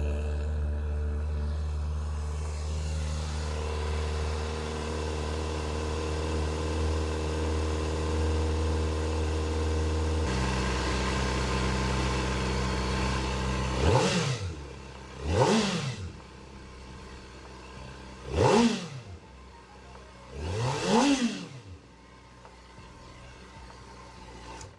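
Kawasaki ZX-4RR's 399 cc inline-four idling on its stock exhaust. The idle note steps down about ten seconds in. Then come four quick throttle blips, each a sharp rise and fall in pitch, before it settles back to idle.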